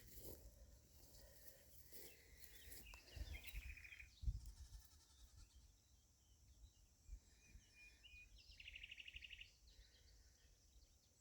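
Faint birdsong: scattered chirps and two rapid trills, one a few seconds in and one near the end, with a soft low thump about four seconds in.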